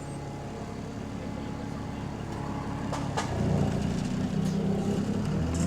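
Diesel bus engine heard from inside the bus: a steady hum, then a sharp click about three seconds in, after which the engine gets clearly louder as the bus pulls away. The bus is said to have a faulty turbo and to be running in limp mode.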